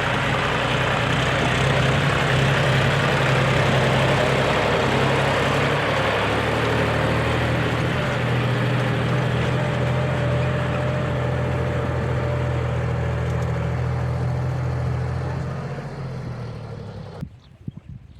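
Heavy diesel engine of earth-moving or farm machinery running steadily under load, fading near the end and then cutting off suddenly.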